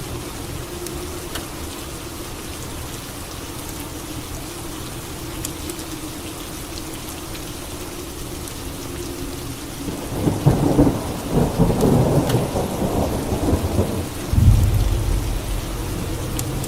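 Steady rain with scattered drips. About ten seconds in, a crackling thunderclap lasts about four seconds and gives way to a deep rolling rumble of thunder.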